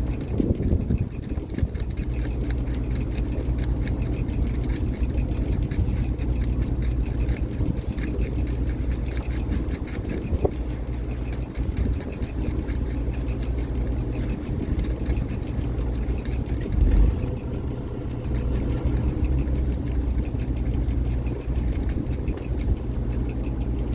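Fishing boat's engine running steadily with a low hum, and one brief low thump about two-thirds of the way through.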